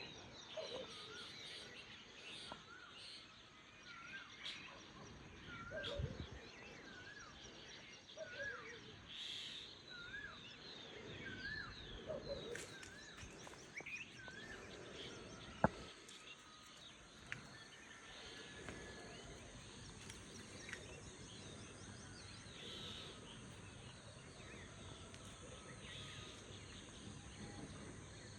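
Birds calling over a steady high insect drone. One bird repeats a short rising-and-falling call about once a second through the first half, other birds chirp throughout, and there is a single sharp click a little past the middle.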